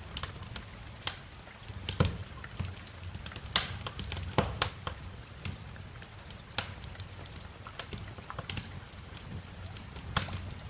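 Wood fire crackling in a fireplace: irregular sharp pops and snaps, the loudest about three and a half seconds in and again a few seconds later, over a low steady rumble.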